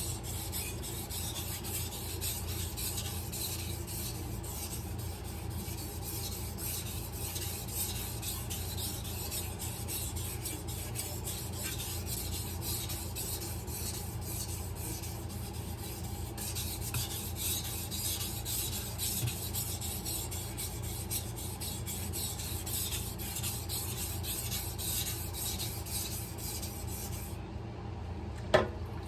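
A hard stainless-steel kitchen knife being stroked over a soaked whetstone: a steady rasping scrape, stroke after stroke. The scraping stops shortly before the end, followed by a single brief knock.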